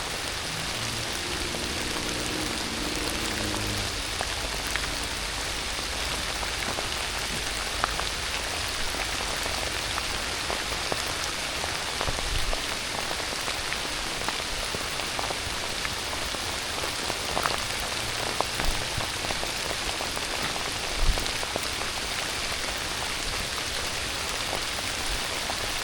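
Heavy, steady rain falling, coming down harder, with a few louder drops and soft low thumps here and there.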